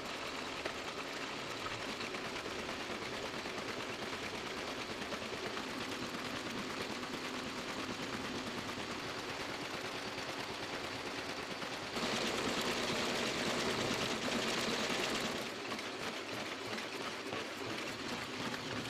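Toko 810 offset printing press running steadily. It gets louder for a few seconds about two-thirds of the way through.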